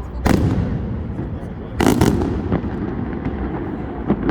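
Fireworks bursting: a loud bang about a third of a second in, a double bang about two seconds in, and a smaller one near the end, over a steady low rumble.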